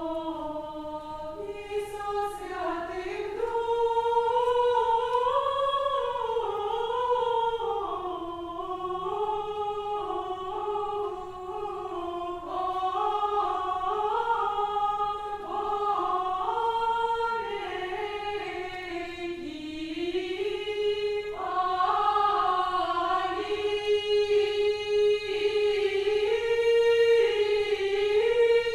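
A choir of high voices singing an Old Russian chant-like melody a cappella in unison, moving step by step in a slow line.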